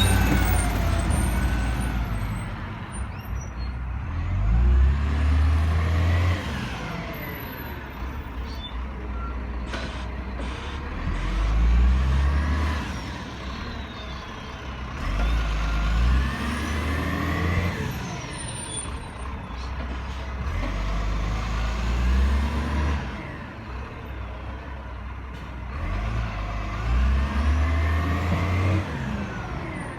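Garbage truck's diesel engine working along a collection run. It revs up about every five or six seconds, each rev bringing a rising and falling whine.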